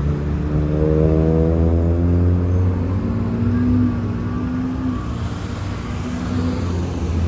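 Transit bus engine pulling away and accelerating. Its pitch rises for the first few seconds, then levels off.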